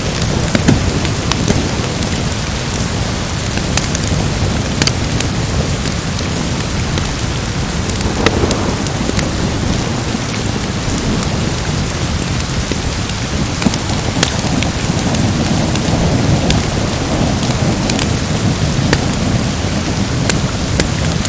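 Steady heavy rain with a deep, continuous thunder rumble underneath, and scattered sharp crackles and pops throughout.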